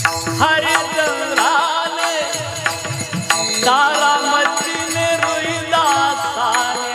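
Devotional kirtan music between sung verses: steady held drone notes under a wavering, ornamented melody, with regular drum strokes and jingling cymbal beats.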